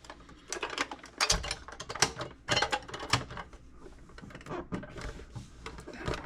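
Small metal toolbox parts clicking and clanking as they are handled and fitted together by hand: irregular sharp clicks, a few louder knocks in the first half and sparser ticking later.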